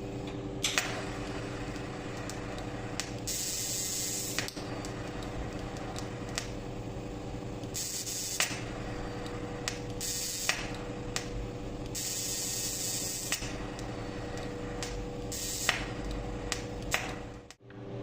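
TIG (argon) welding of an oil-passage plug in a crankshaft: a steady hum with several hissing bursts of the arc, each lasting up to a second or so, and occasional sharp clicks.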